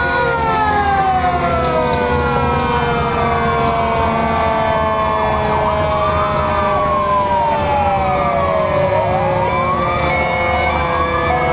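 Several emergency-vehicle sirens from a parade of fire trucks sound together and overlap. Long wails slowly fall in pitch, one siren sweeps down and back up in the middle, and truck engines rumble steadily underneath.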